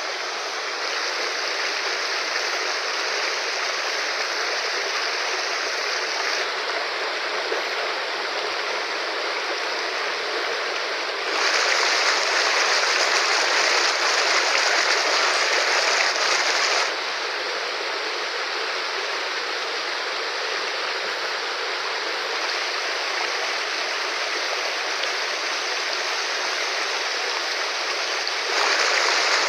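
Fast-flowing river rushing steadily. The level jumps up or down suddenly several times and is loudest from about 11 to 17 seconds in and again near the end.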